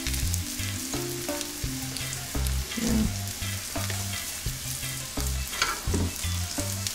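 Cabbage fritters sizzling in hot olive oil in a frying pan, with light taps and scrapes of a fork turning them over.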